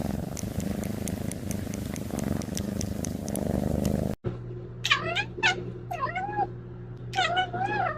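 Domestic cat meowing about four times, each call rising and falling in pitch, over a low steady hum. Before that, up to an abrupt cut about four seconds in, there is a steady rumbling noise with faint clicks.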